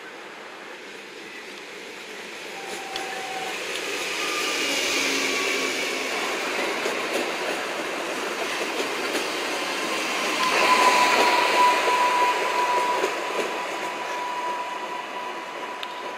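Regional electric multiple unit running in along the platform. The wheel and running noise grows louder to a peak about two thirds of the way through. From about ten seconds in, a steady high-pitched squeal sounds over it.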